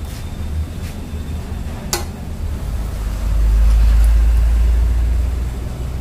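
A low steady rumble, swelling for a couple of seconds past the middle, over jalebi frying in a wide iron pan of oil. A flat steel blade clinks once against the pan about two seconds in.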